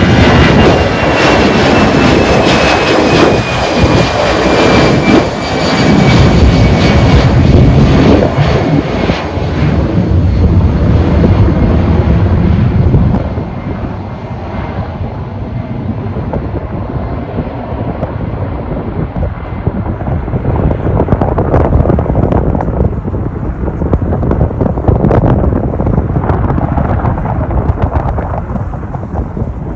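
Jet airliner taking off at full thrust: loud engine rumble with a high turbine whine that slowly falls in pitch as the plane passes. After about thirteen seconds it grows quieter and duller as the aircraft climbs away.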